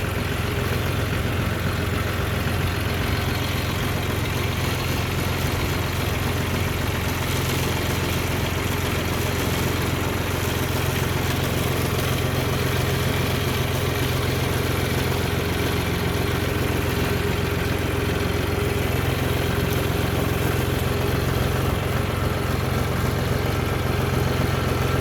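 Motor vehicle engine running steadily, a low drone that holds an even level throughout.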